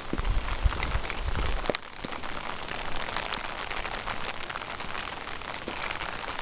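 Rain falling, a steady hiss with a dense patter of sharp drop hits. A low rumble sits under it for the first second and a half or so, then cuts off suddenly.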